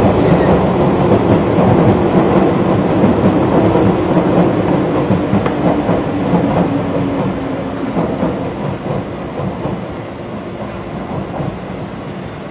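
Electric train running on rails, with a steady rumble and clatter over the rail joints that slowly fades as it goes.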